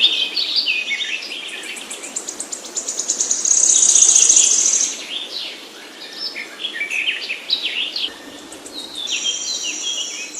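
Songbirds chirping: a string of short, high, down-slurred notes, with a fast, high-pitched trill from about three to five seconds in that is the loudest part.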